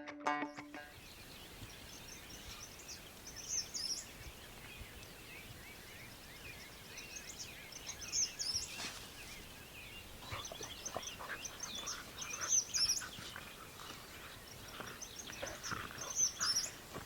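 Songbirds singing outdoors: one bird repeats a short, high song phrase about every four seconds, with scattered smaller chirps joining in about halfway through. A plucked-string music track ends in the first second.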